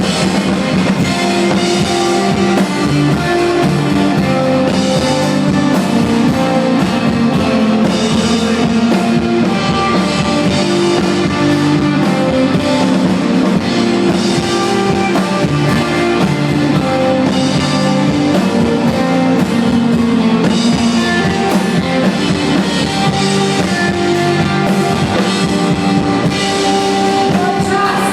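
Indie rock band playing live: steady drum kit with electric guitar and bass, sustained notes over an even beat.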